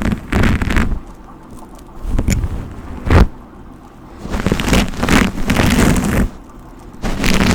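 Hairbrush strokes through hair close to the microphone: several short brushy swishes, then one longer stroke of about two seconds, with short pauses between.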